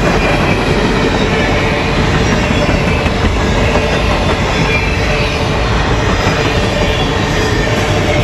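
Freight train cars rolling past on the rails with a loud, steady rumble and a faint high wheel squeal over it.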